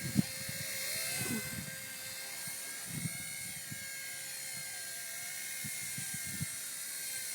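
Small electric RC helicopter in flight, its motor and rotor giving a steady high whine that rises and falls a little in pitch about three seconds in. A few faint low knocks come and go under it.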